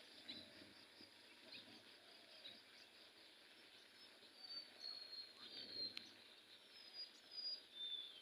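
Faint outdoor background hiss with scattered short, high bird chirps, more of them in the second half.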